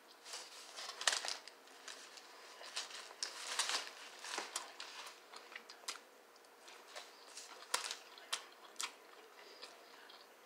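Close-up eating sounds: a bite into a fried chicken sandwich and chewing, with irregular small crunches and mouth smacks, mixed with crinkling of the foil-lined paper wrapper.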